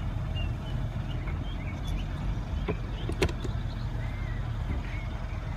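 Outdoor background: a steady low rumble with faint high chirps scattered through, and two sharp clicks a little past the middle.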